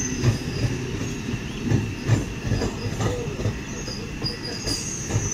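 Indian Railways sleeper-class coach in motion: wheels clacking over rail joints, a few low knocks a second, under a steady rumble with a thin high whine.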